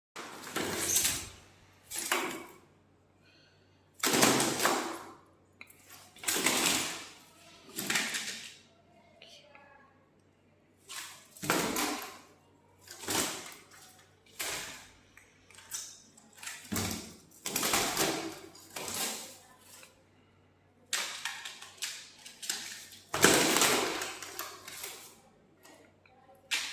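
A myna pecking and tapping at a mirror in quick rattling bursts, one every second or so, with short pauses between.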